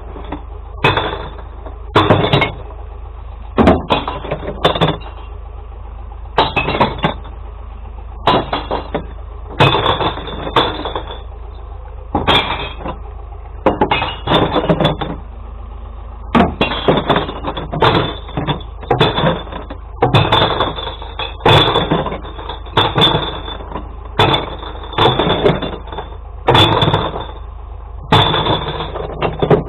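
Glass bottles being tossed one after another into a glass recycling truck's bins, each landing with a clattering, breaking crash roughly once a second, over the steady low hum of the truck.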